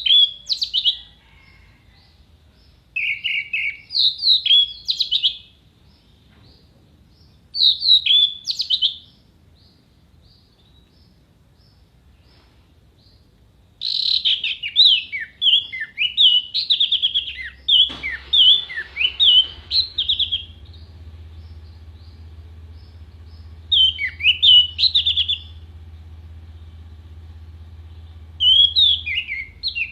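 Orange-headed thrush singing in bursts of loud, rapid whistled phrases with sharp, high notes, separated by pauses of a few seconds; the longest phrase runs for about six seconds in the middle. A low steady hum comes in about halfway through.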